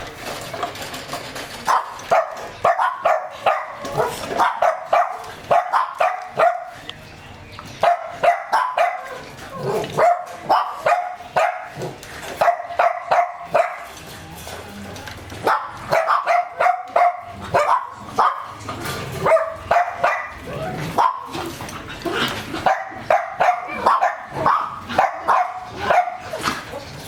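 German shepherd barking over and over in quick runs of short, fairly high barks, a few a second, with brief pauses between the runs.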